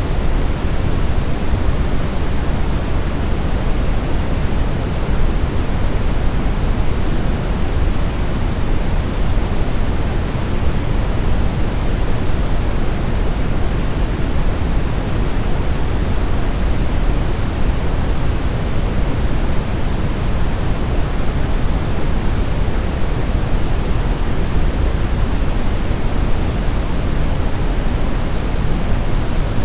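Steady brown noise: a continuous, even, deep rushing hiss, strongest in the bass.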